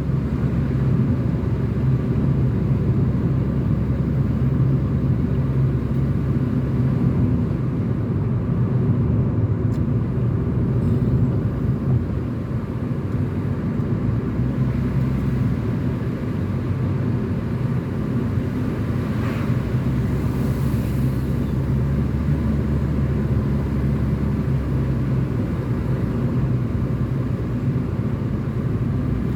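Car driving along a road: steady engine and tyre noise, a continuous low hum.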